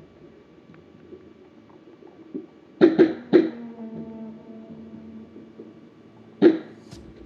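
A person coughing: three coughs in quick succession about three seconds in, then a single cough about three seconds later.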